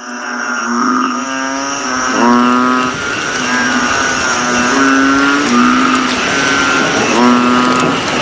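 A loud chorus of frogs, with one pitched, droning call after another, overlapping, about one a second, over a steady high insect whine.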